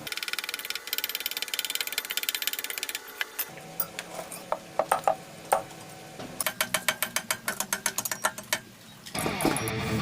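Rapid, evenly spaced mechanical clicking in two runs of a few seconds each, with a few separate clicks between them; music comes in near the end.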